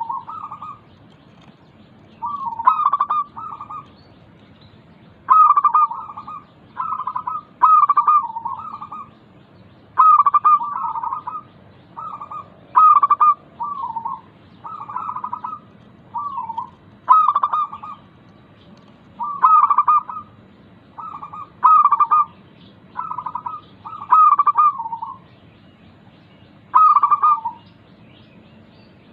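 Local zebra dove (perkutut) cooing its song: short phrases of quick staccato notes, repeated about every two seconds, over a steady low hum.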